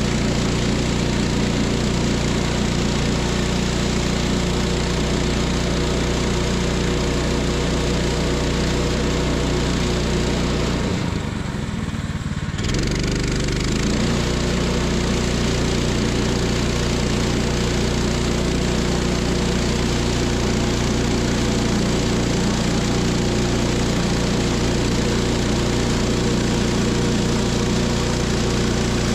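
Small gas engine of a portable band sawmill running steadily while milling a log. The level drops briefly about eleven seconds in, then the engine carries on as before.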